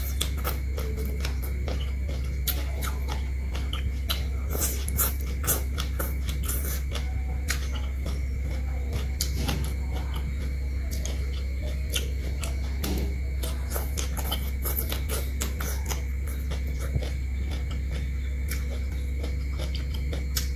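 Close-up chewing and crunching of crisp stir-fried water spinach stems, a dense run of short crackles and snaps, over a steady low hum.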